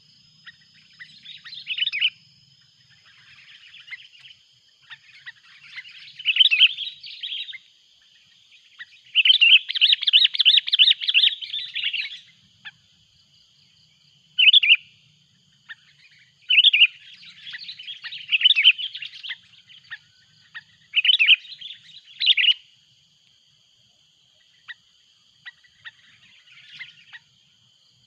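Sooty-headed bulbul (kutilang) calling noisily in bursts of quick chattering notes with short pauses between phrases. The longest and loudest run comes about nine to twelve seconds in.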